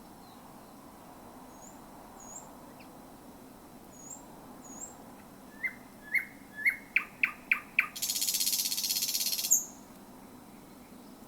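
Thrush nightingale singing: a few faint high whistles, then a run of upslurred notes that speeds up into sharp clicks, ending in a loud, harsh rattle of about a second and a half.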